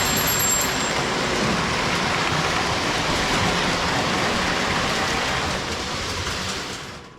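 Lionel toy train running on the layout's track: a steady, loud rumble of wheels on metal rail that fades away near the end.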